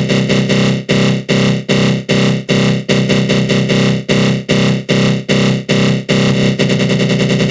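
Synthesized 'attack growl' sound effect: a harsh, buzzing synth tone swept by a flanger, pulsing about two and a half times a second. In the last second or so the pulsing turns quicker and shallower.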